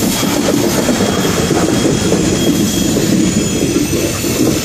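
Freight train rolling past close by at slow speed: steady rumble and clatter of steel wheels on the rails, with a faint high wheel squeal.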